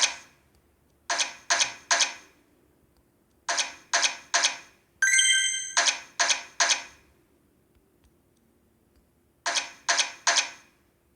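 Video slot machine sound effects: sets of three quick, sharp clicks every two to three seconds, with a short bright chiming tone about five seconds in.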